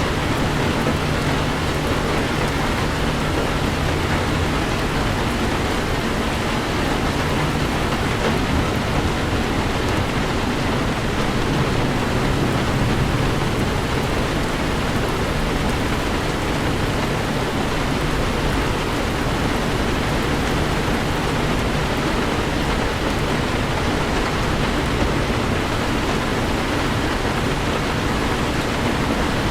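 Heavy rain falling on a Toyota 4Runner as it drives: a steady, even rain noise with a low rumble underneath.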